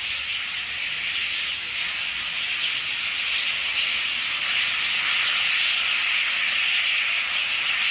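Steam locomotive releasing steam in a steady hiss that grows a little louder, with no exhaust beat.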